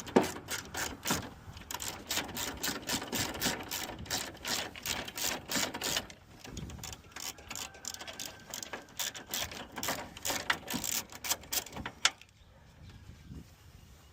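Ratchet wrench clicking in quick runs as a headlight mounting bolt is worked loose. The clicking stops about two seconds before the end.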